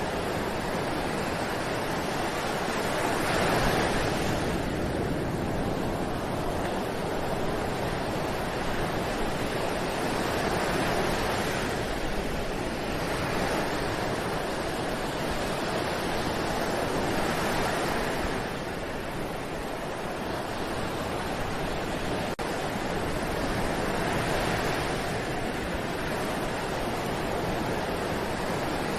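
Ocean surf: waves breaking and washing up the shore in a continuous hiss that swells and eases about every six or seven seconds.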